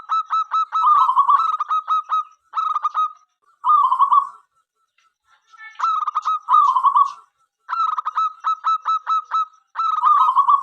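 Zebra dove (perkutut) cooing song: repeated phrases of quick clipped notes running into rolling trills, with short pauses between phrases.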